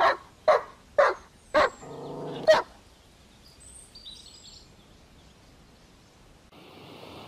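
Dog barking five times in about two and a half seconds, with a short growl running into the last bark. Faint bird chirps follow, and a steady hiss of outdoor ambience comes in near the end.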